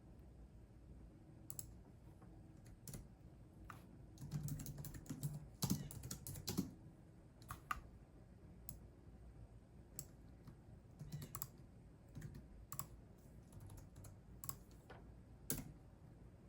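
Typing on a computer keyboard in irregular keystrokes: a quick run of keys about four to seven seconds in, otherwise sparse single taps.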